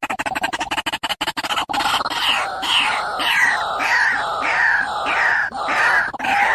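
White-breasted waterhen (ruak-ruak) calling: a fast run of rapid pulses for about the first second and a half, then a series of loud, harsh repeated notes, roughly two a second.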